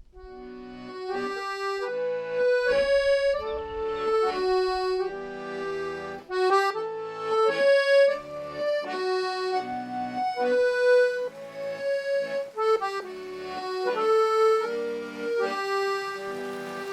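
Accordion playing a slow melody of held notes over chords.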